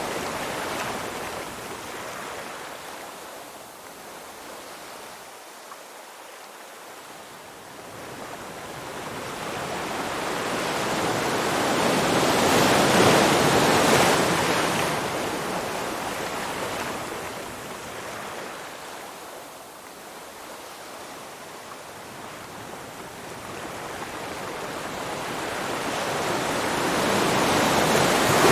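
Ocean waves washing in and drawing back, a rushing surf noise that swells and fades slowly. It is loudest about halfway through and builds again near the end.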